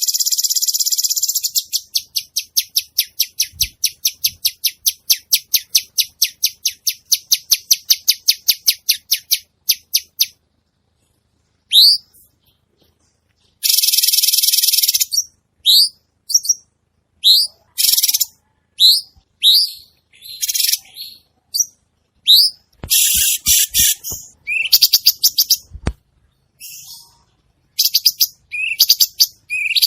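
Cucak cungkok singing vigorously. It opens with a harsh buzzy chatter, then gives a long run of rapid repeated notes at about five a second. After a pause of about two seconds comes a varied series of sharp rising whistled notes mixed with harsh buzzy bursts.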